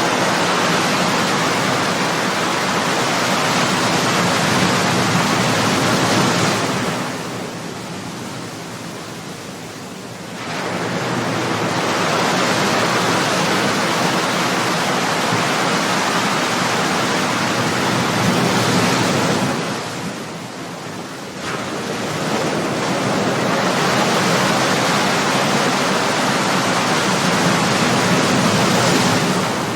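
Ocean waves breaking, a steady wash of surf that swells and eases in three long surges, with lulls about seven and twenty seconds in.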